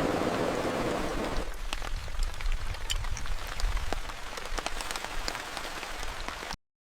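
Rain ambience: steady rain with many scattered individual drop ticks over a low rumble, denser at first and thinning to distinct drops after about a second and a half. It cuts off abruptly near the end.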